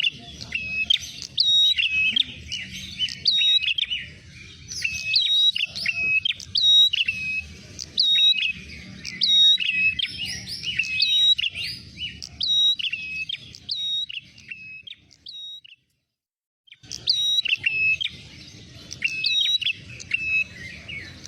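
Prenjak merah songbird chirping in a rapid, dense series of high, sharp call notes, played as a bird-lure recording. The calls break off into about a second of silence around two-thirds of the way through, then start again.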